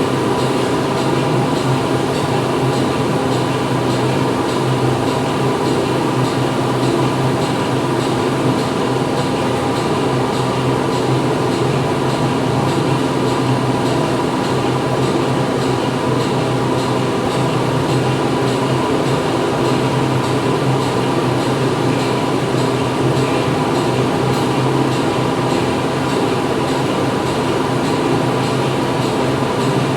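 Factory interior ambience: continuous machinery running, a steady mechanical hum and dense noise that holds even throughout.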